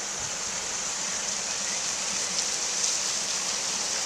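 Water rushing steadily at a water-powered mill, a continuous even hiss with no breaks.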